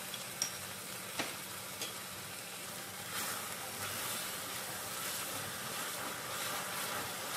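Grated papaya and jaggery frying in ghee in a nonstick kadhai, sizzling as a wooden spatula stirs and scrapes it. A few sharp taps of the spatula on the pan come in the first two seconds, and the sizzling and scraping get louder from about three seconds in.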